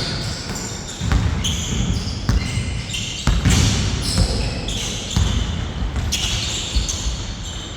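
Basketball bouncing on a hard court during play, a series of sharp thuds about a second apart, with other game noise around it.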